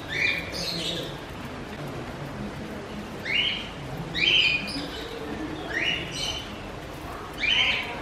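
Small cage birds chirping: about five short, rising chirps at irregular intervals, a couple of them doubled.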